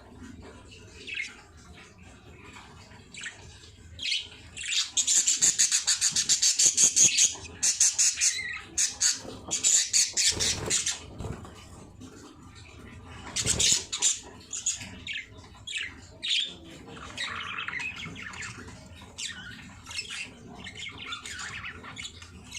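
Baby birds calling in loud bursts of rapid, high-pitched squawks, the longest lasting about three seconds, with quieter chirps between the bursts.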